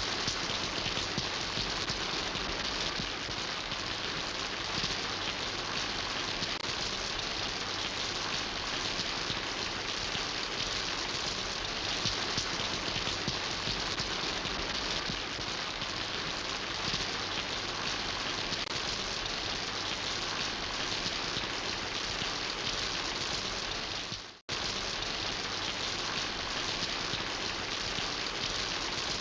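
Steady rain falling, a dense even patter. It cuts out for an instant about three-quarters of the way through, then resumes.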